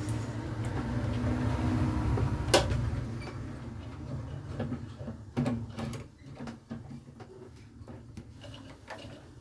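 Pliers clicking and knocking against a microwave oven's high-voltage capacitor terminal while working its wire connector loose. One sharp click comes early and a cluster of smaller clicks follows in the second half, over a low rumble that fades about three seconds in.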